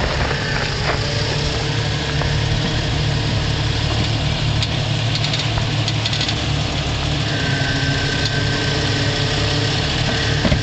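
Jeep Cherokee's engine running at low, steady revs as it crawls slowly over boulders.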